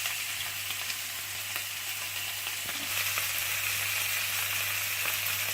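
Beef steak slices sizzling in olive oil on a hot grill pan: a steady frying hiss that grows a little louder about three seconds in.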